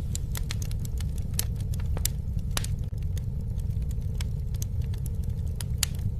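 Campfire burning: wood crackling with frequent irregular sharp pops and snaps over a steady low rumble of flames.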